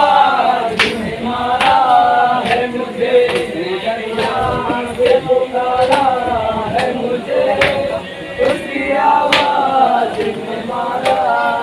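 A group of men chanting a Shia noha refrain in chorus, with sharp slaps in a steady beat a little more than once a second, the matam of chest-beating that keeps time with the chant.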